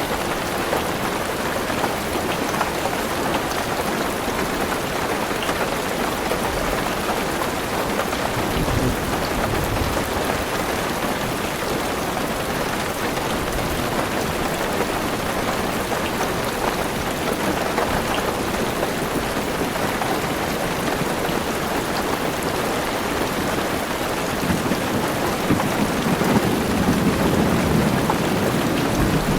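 Heavy rain drumming on a car roof, a steady hiss. There is a low roll of thunder about nine seconds in and a longer, louder rumble of thunder near the end.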